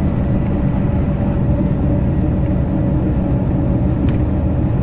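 Scania K340IB coach under way, heard from on board: a steady engine drone mixed with road noise, with no change in speed or gear.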